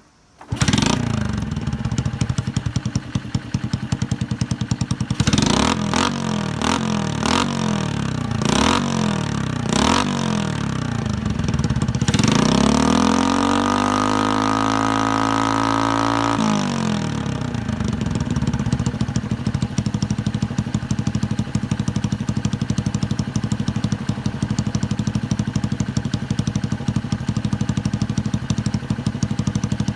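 Chopper-style Honda Super Cub engine breathing through a homemade twin-outlet muffler: it starts up, gets four quick throttle blips, one longer held rev, then settles into a steady idle.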